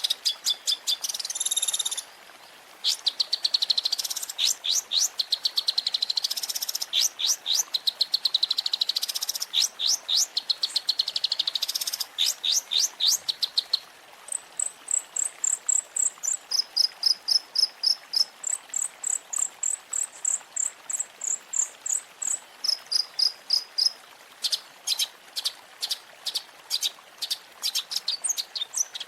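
Long-tailed shrike (cendet) song used as a training recording: fast trains of sharp, chattering notes, then from about halfway a run of quick high-pitched notes switching back and forth between two pitches, and rapid trains again near the end.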